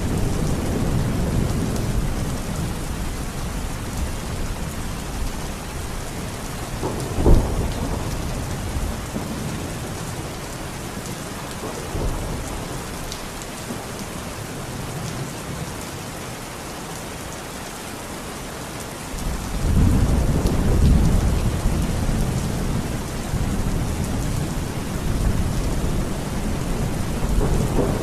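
Steady heavy rain with thunder rumbling low underneath. A short sharp crack comes about seven seconds in, and a fresh rumble of thunder swells up about two-thirds of the way through.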